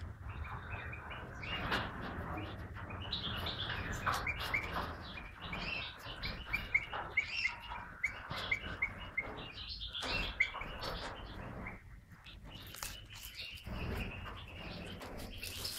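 Small birds chirping: runs of short, quick notes repeated several times a second, thickest between about three and ten seconds in, over a low background rumble.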